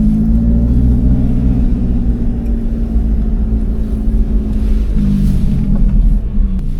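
Lotus Elise Cup 250's supercharged 1.8-litre Toyota four-cylinder running at low, steady revs, with a small shift in pitch about five seconds in.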